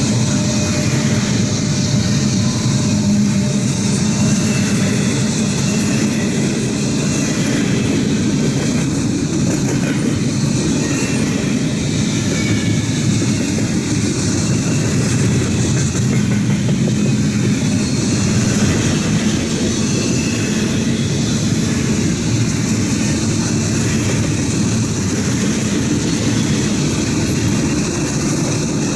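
Norfolk Southern intermodal freight train rolling past, its cars running over the rails in a steady, loud, continuous noise.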